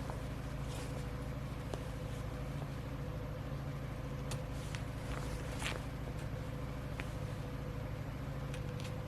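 A steady mechanical hum: a low drone with a faint higher tone held above it, and scattered light clicks.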